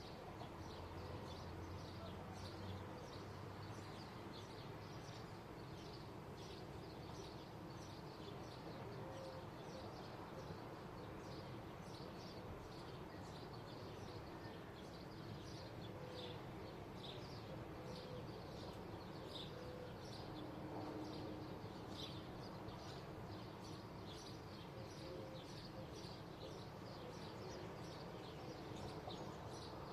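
Many small birds chirping, short high chirps several times a second throughout, over a faint steady low background rumble of daily life.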